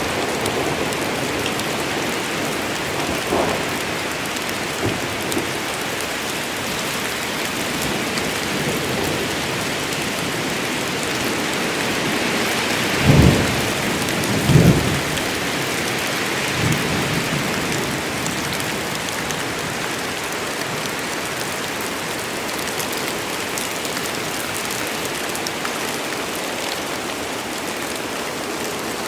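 Steady rain falling hard, with two short, loud, low thumps about halfway through, a second and a half apart, and a few fainter ones scattered around them.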